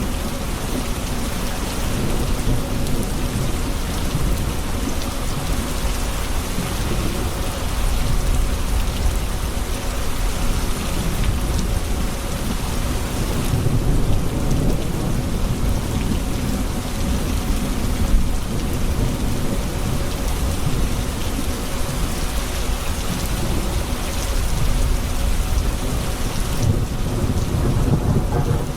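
Thunderstorm: steady heavy rain falling on hard surfaces, with low rolling thunder rumbling underneath and swelling at times.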